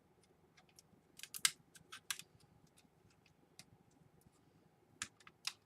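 Faint scattered clicks and taps of small plastic and metal parts being handled inside an opened laptop, in little clusters about a second in, at two seconds, and again near the end, as a ribbon cable connector is worked loose.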